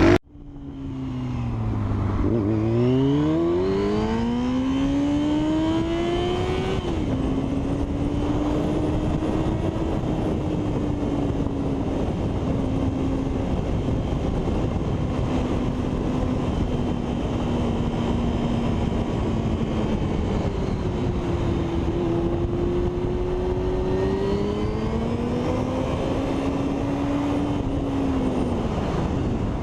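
A single motorcycle engine under way: the revs climb over the first few seconds, then hold fairly steady with slow rises and dips, falling away near the end, over a steady rushing noise.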